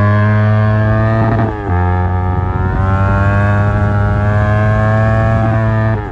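Yamaha R25 parallel-twin engine through an Akrapovic exhaust, pulling hard under acceleration, its pitch climbing steadily. The pitch drops sharply at an upshift about a second and a half in, climbs again through the next gear, and drops at another shift near the end.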